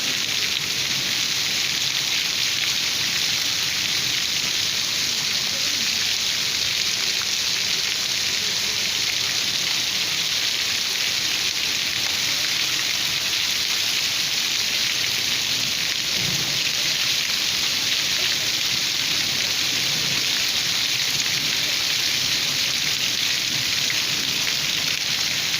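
Steady, heavy rain falling and pattering on hard surfaces.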